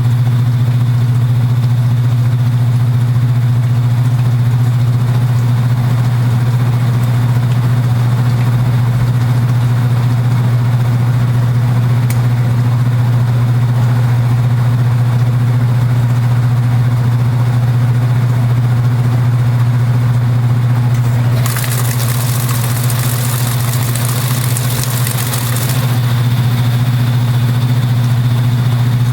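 Kenmore belt-drive portable washing machine running with a loud, steady buzzing hum; the owner says the cabinet buzzes. About two-thirds of the way through, a hiss rises over the hum for about four seconds, then stops.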